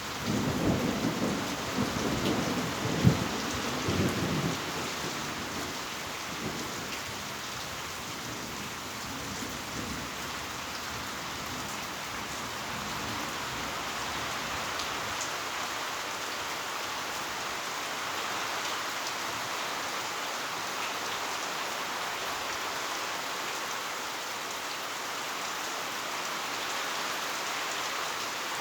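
Heavy rain falling steadily, an even hiss. In the first four seconds or so there is a low, uneven rumble, with one sharp loud peak about three seconds in.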